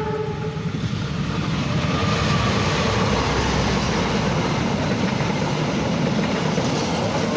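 A diesel-hauled long-distance passenger train passing close by: the rumble of its wheels on the rails builds over the first two seconds, then holds steady as the carriages go by. The tail of a train horn blast cuts off right at the start.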